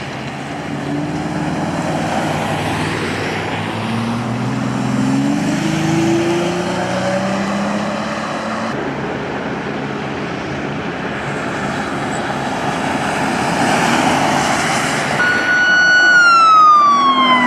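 Vehicle and road noise from a police chase, with engines running. Near the end a police siren holds a high note and then slides down in pitch.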